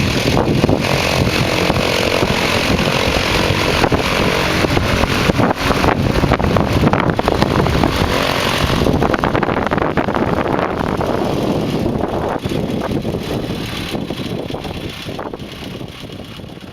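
Light aircraft's engine running on the ground, driving its propeller. The sound eases somewhat after about nine seconds and fades away near the end.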